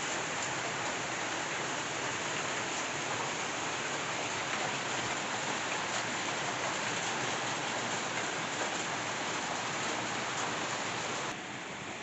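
Steady rainfall: a dense, even rush of many drops. About eleven seconds in it drops suddenly to a quieter, lighter level.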